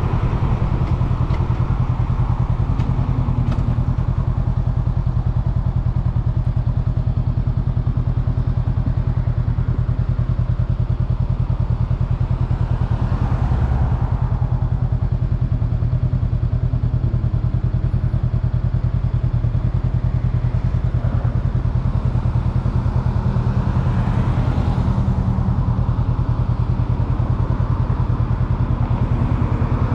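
A 2022 Honda Rebel 500's parallel-twin engine slows from road speed, then idles steadily while the bike waits at a stop. Passing traffic swells by twice, about halfway through and again near the end.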